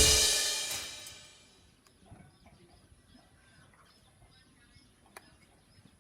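A cymbal crash at the end of background music rings out and fades away over about a second and a half. Faint bird chirps follow over a quiet background.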